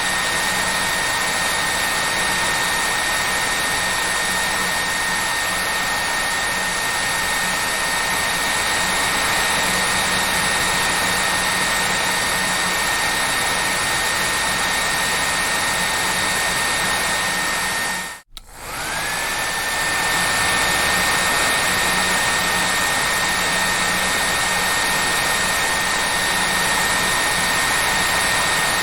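Hair dryer running steadily: a rushing blow with a high motor whine. About 18 seconds in it cuts out for a moment, then the whine rises back up to pitch as the motor spins up again.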